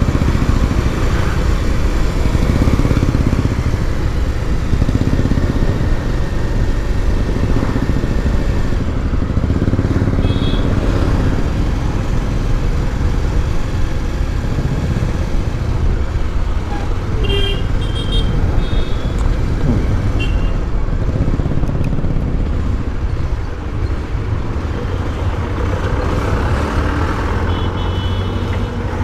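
Motorcycle on the move in road traffic: a steady heavy rumble of engine and riding noise, with short vehicle horn beeps about ten seconds in, several more between seventeen and twenty-one seconds, and again near the end.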